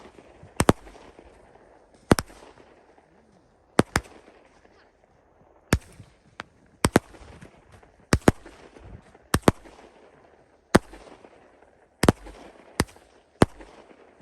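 Fireworks exploding: about a dozen sharp bangs at irregular intervals, roughly one a second, with fainter noise between them.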